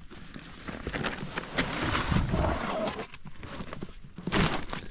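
A sheet of cover material rustling and crackling as it is handled. It is loudest about two seconds in, with a shorter burst near the end.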